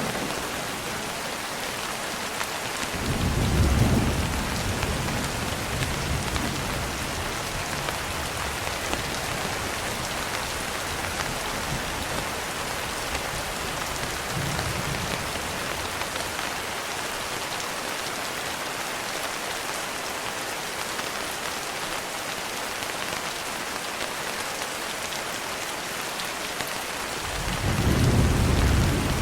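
Steady rain with thunder: a loud rumble about three seconds in that dies away over several seconds, a fainter one around the middle, and another building near the end.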